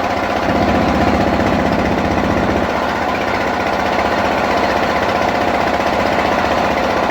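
A small engine running steadily at a fairly constant speed, with a fast, even pulsing.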